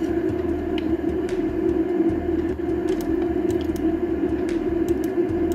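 VAZ-2106 (Zhiguli) engine idling steadily while warming up in the cold, heard through the clip's own soundtrack, with a few faint clicks scattered through it.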